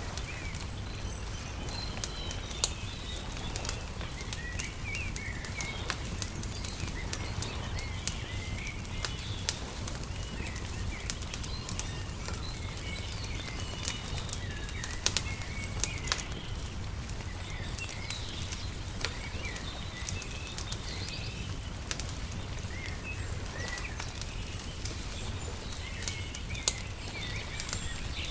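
Wood fire crackling, with scattered sharp pops over a steady low rumble, while small birds chirp throughout.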